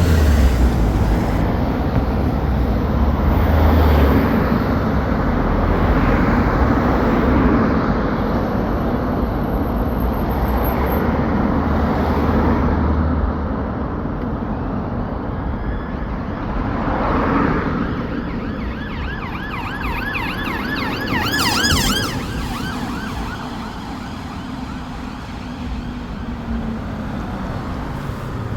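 Heavy road traffic with a low engine rumble, loudest in the first half. A police car siren sounds, switching to a fast warbling yelp a little past two-thirds of the way through.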